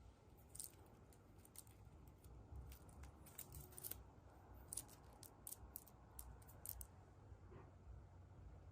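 Faint, scattered crinkles and clicks of a surprise egg's wrapping and plastic toy packaging being handled, in irregular bunches for several seconds.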